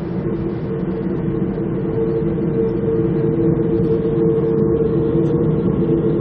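Passenger train running along the rails, heard from inside the carriage as a steady low rumble. A steady two-note hum comes in at the start and holds above the rumble.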